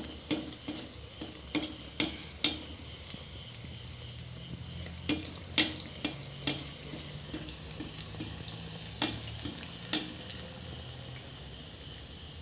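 Rice-and-pumpkin batter frying in hot oil in a steel kadai: a steady sizzle. A slotted spatula clicks and scrapes against the pan now and then, stopping about ten seconds in.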